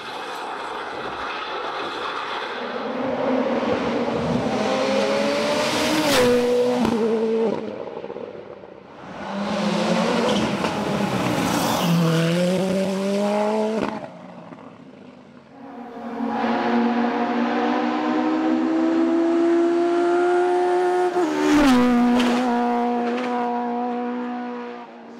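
Hillclimb race cars accelerating flat out, their engines climbing in pitch and dropping sharply at upshifts, heard as three separate passes.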